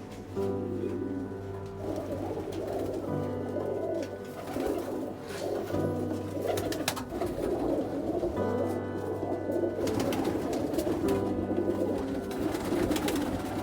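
Domestic pigeons of Pakistani breeds cooing, over background music with steady sustained tones.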